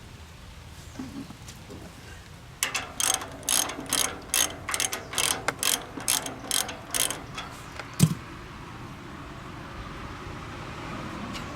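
A hand ratchet wrench being worked in quick strokes, about two clicking strokes a second for some five seconds, while a fastener is turned during brake disassembly. A single sharp knock follows.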